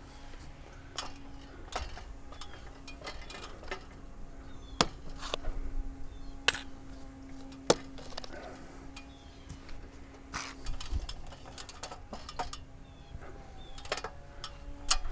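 Metal clicks and clinks at an irregular pace from the cable winch and telescopic pole as the bat-house pole is let down, over a steady low hum.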